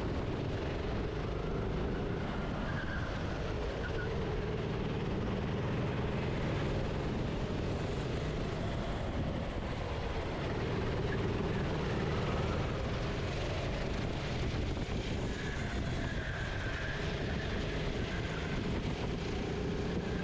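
Racing kart's engine heard onboard, running continuously with its revs falling and picking up again every few seconds, as for braking and accelerating through corners, over a broad rush of noise.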